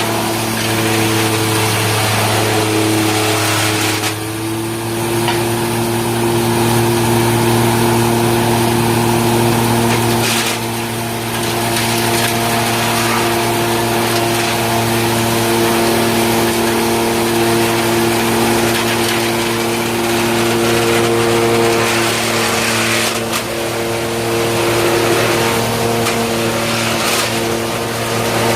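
Sawdust-making wood chipper machine running steadily under power, a loud continuous mechanical hum with a few brief dips in level.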